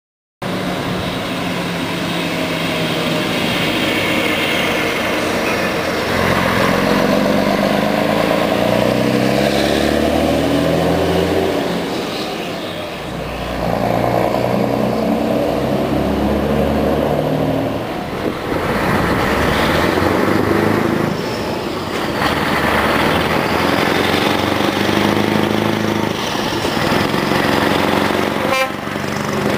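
Scania V8 truck engine running and revving, its pitch stepping up and down every second or two.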